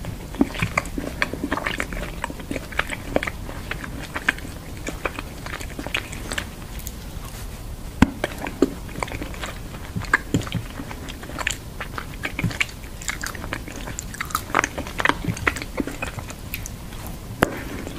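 Close-miked biting and chewing of a hard chocolate shaped like pliers: irregular sharp snaps and crunches with mouth sounds between them.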